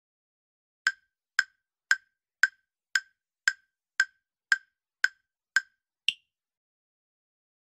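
Quiz countdown-timer sound effect: ten short clock-like ticks, about two a second, then one higher, different click about six seconds in.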